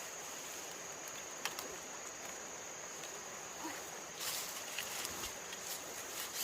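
Steady high-pitched insect buzz over a soft outdoor hiss. There is a single click, then a run of clicks and crackling from about four seconds in.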